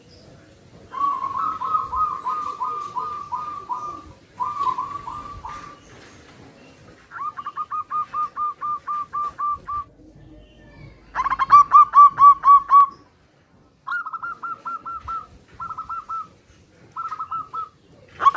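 Zebra doves (perkutut) cooing in bouts of quick repeated notes, about eight notes a second, with pauses between bouts. The bouts differ slightly in pitch, as birds answering one another. The loudest bout comes about halfway through.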